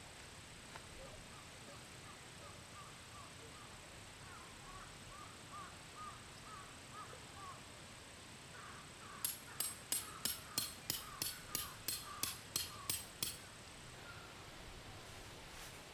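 Faint bird chirps repeating about twice a second, then a quick run of about a dozen sharp knocks, roughly three a second, lasting about four seconds.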